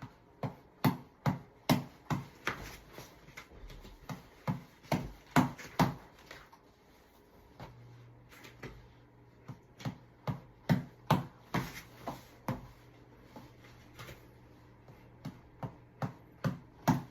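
Sharp taps of a tap ball (reflex ball on an elastic cord) being punched repeatedly, in runs of hits about two to three a second with short breaks between runs.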